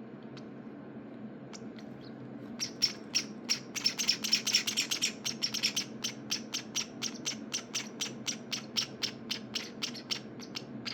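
Java sparrow (Java finch) nestlings chirping: after a couple of quiet seconds, short high chirps start up fast and close together, then settle into an even run of about four a second.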